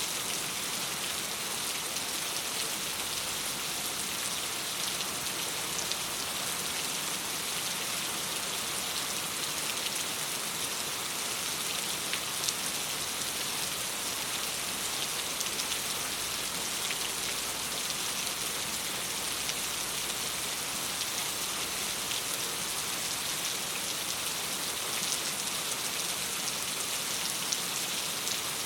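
Steady rain pattering on a window: a dense, even hiss with scattered sharp drop ticks.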